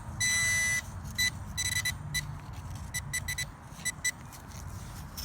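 Blisstool Beast V6 metal detector sounding a strong target signal: a long high beep, then a string of short beeps. Low wind rumble on the microphone underneath.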